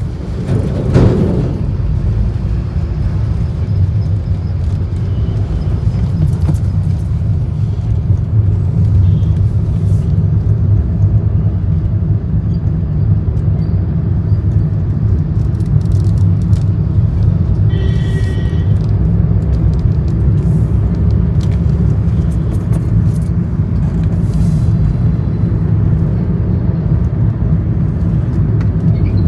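Steady low engine and road rumble inside a moving car's cabin at highway speed. A short high-pitched tone sounds about two-thirds of the way through.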